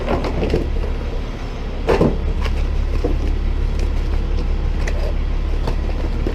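Tow truck engine idling with a steady low hum, while loose plastic car parts are shoved into a trash can with a few knocks and clatters, the loudest about two seconds in.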